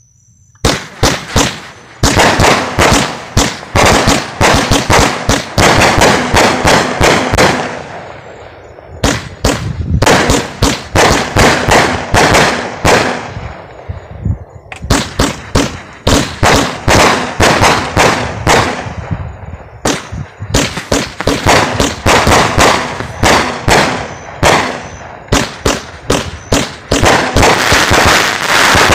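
A Brothers Heavyweight 49-shot firework cake firing: rapid, loud shots and crackling bursts one after another, with a few brief lulls between volleys.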